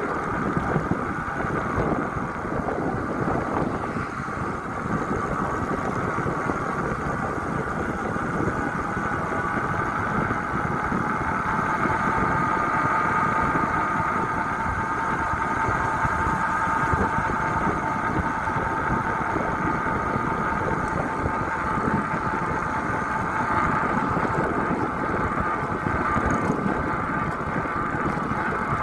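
Motorcycle engine running steadily while under way, with a continuous drone and no pauses.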